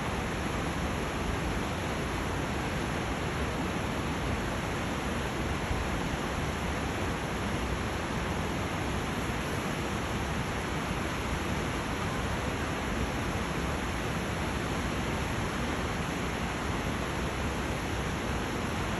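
Whitewater rapids rushing, a steady unbroken wash of water noise.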